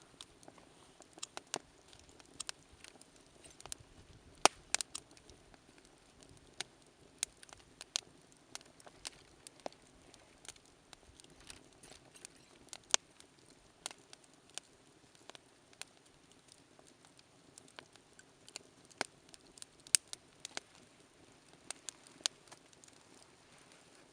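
Wood campfire crackling, with frequent irregular sharp pops and snaps over a faint steady rush of burning.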